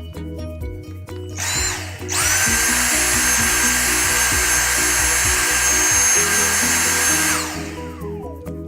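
A small electric motor spins up about two seconds in, runs at a steady high whine with a hissing rush for about five seconds, then winds down. Background music plays throughout.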